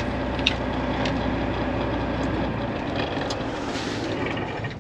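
Heavy truck's diesel engine running at idle, a steady low rumble; the deepest part of the rumble drops away about halfway through.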